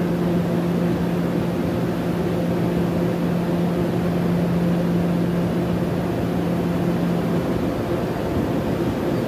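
Steady low mechanical hum over a constant rushing noise as an express passenger train draws toward the platform from far off; the level holds even throughout.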